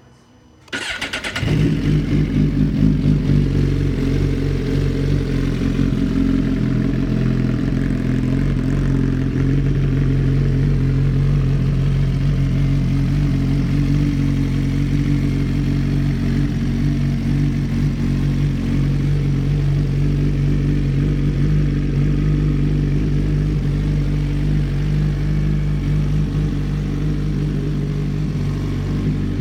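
2017 Suzuki GSX-R1000's inline-four engine started: a brief whir of the starter about a second in, the engine catching, then idling steadily.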